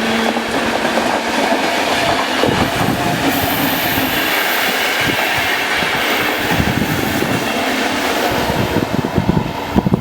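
Electric train passing on the line with a steady rumble. Its wheels click over rail joints, and the clicking gets thicker in the last few seconds.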